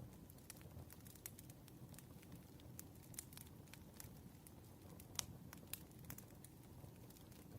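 Faint campfire crackling: irregular sharp pops and snaps over a low steady rumble of burning wood, with the loudest snap about five seconds in.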